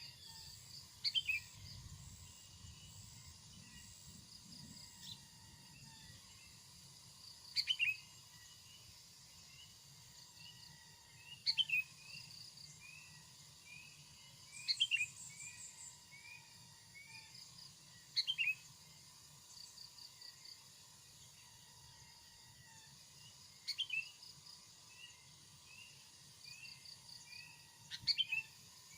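A bird giving a short, sharp call that falls in pitch, seven times a few seconds apart. Under it, other birds chirp softly in a quick series and insects buzz steadily at a high pitch.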